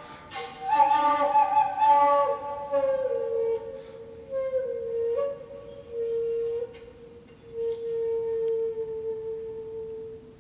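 Shakuhachi playing a slow, breathy phrase that steps down in pitch. It settles on a long held low note that is repeated in several breaths and fades away near the end.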